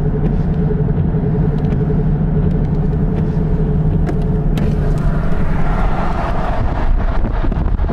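Severe thunderstorm wind rumbling and buffeting over a steady low hum, swelling into a louder rushing gust about six seconds in.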